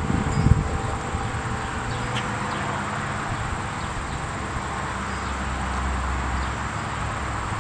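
Steady outdoor background hiss with a low hum that swells between about five and seven seconds in. A wind chime's last ringing tone fades out in the first second.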